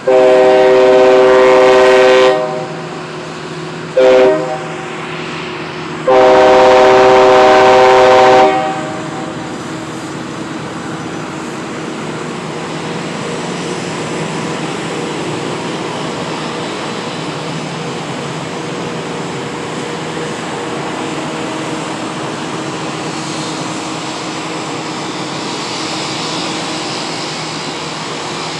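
Loram rail-maintenance train's horn sounding three loud blasts of several notes at once, long, short, long. Then the steady rumble of the train running past.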